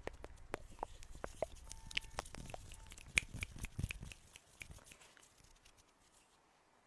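Close-miked stones clicking and grinding against each other in short sharp taps, several a second, which thin out and stop about two-thirds of the way through.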